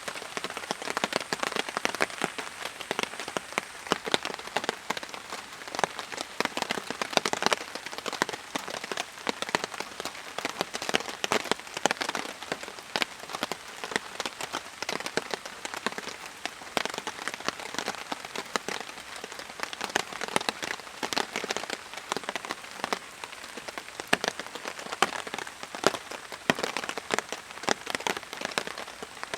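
Steady rain, with a dense stream of close individual drops striking a surface.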